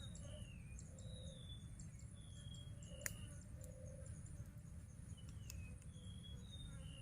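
Forest birds calling with short whistled notes, several sliding down in pitch, over a faint steady high insect hum and a low rumble. A single sharp click comes about three seconds in.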